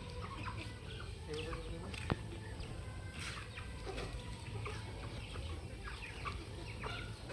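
Aseel chickens clucking, many short calls overlapping, over a steady low background rumble, with one sharp click about two seconds in.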